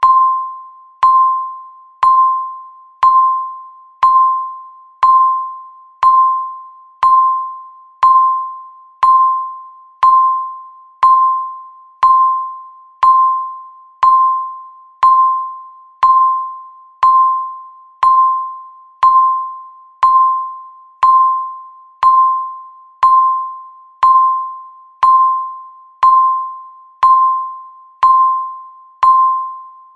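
Countdown timer ticking once a second: each tick is a single clear, mid-pitched electronic ding that fades away before the next one.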